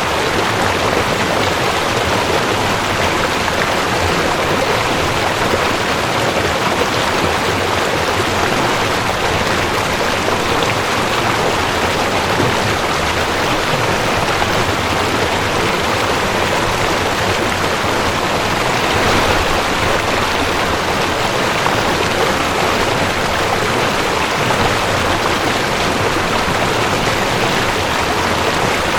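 Mountain stream rushing over rocks, a steady loud rush of water with no breaks.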